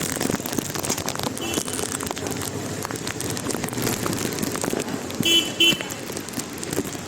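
Road vehicle horn giving two short toots in quick succession about five seconds in, with a fainter toot about a second and a half in, over steady noisy street sound.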